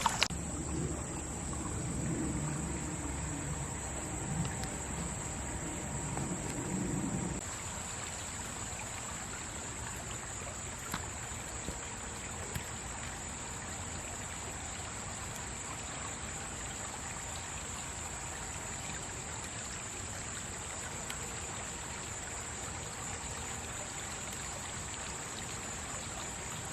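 Stream water running, with a steady high insect trill above it. The water is louder and fuller for about the first seven seconds, then drops suddenly to a softer, even flow.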